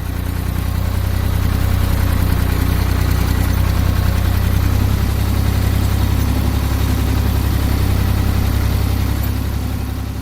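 Tractor engine running steadily with a deep, rapid pulsing, fading away near the end.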